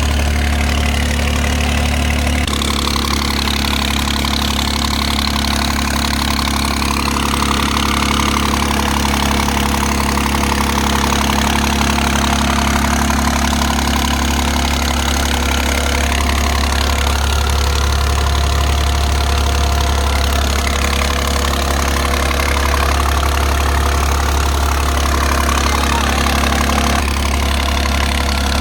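New Holland 3630 Super Plus tractor's three-cylinder diesel engine running steadily, with abrupt changes in the sound about two seconds in and near the end.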